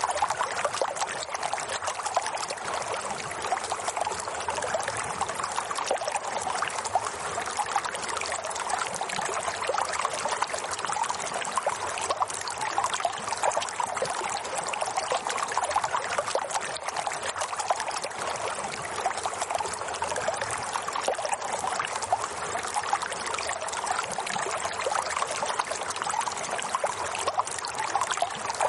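Steady running water, a continuous splashing trickle without pauses.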